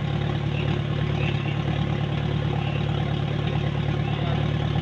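Off-road 4x4's engine idling steadily, a constant low hum with no revving.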